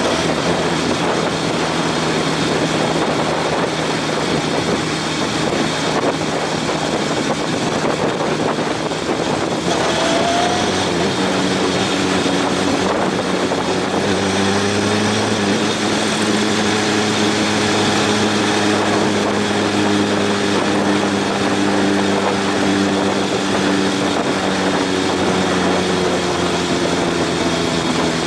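Honda CB750 motorcycle riding along, its inline-four engine running steadily under a heavy rush of wind noise. The engine note grows clearer and rises slightly partway through, then eases near the end.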